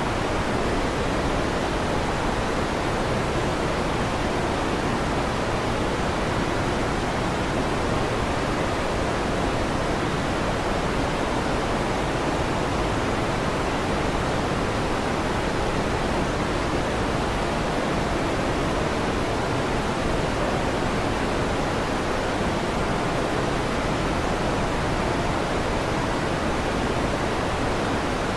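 Electric fan running with a steady, even rushing noise that does not change.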